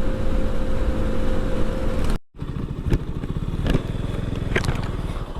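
Motorcycle engine running steadily on the move. After a sudden cut about two seconds in, the engine idles with an even low pulse, broken by a few sharp clicks.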